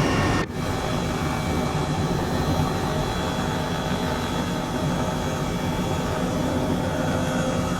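Helicopter in flight: steady engine and rotor noise with constant high whining tones, briefly dipping about half a second in.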